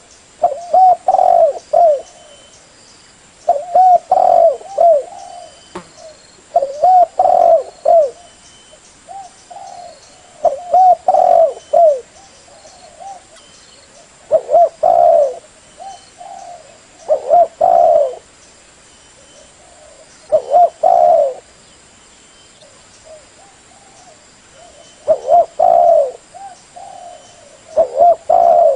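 Spotted dove (tekukur) cooing: repeated phrases of several low, rounded coos, each about a second long, roughly every three seconds with one longer pause. This is the call used to lure other spotted doves.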